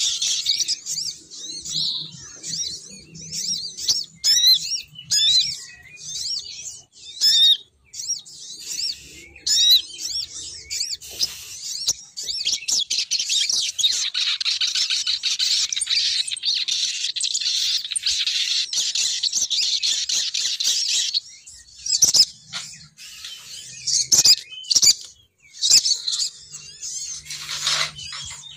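Female sogon bird calling: rapid, high-pitched chirping and twittering, played as a lure call (suara pikat) to draw males down. The chirps run together into a near-continuous twitter for several seconds mid-way, then turn sparser and broken with sharp clicks.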